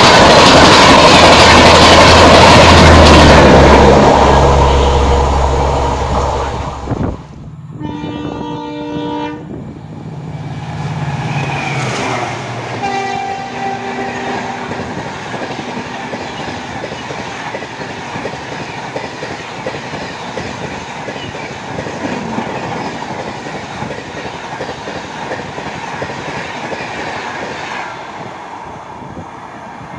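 An Indian Railways diesel-hauled express train passes at speed close by, with a loud rumble and wheel noise that dies away about seven seconds in. A locomotive horn then sounds twice, a few seconds apart, over the steady rumble of a train on the line.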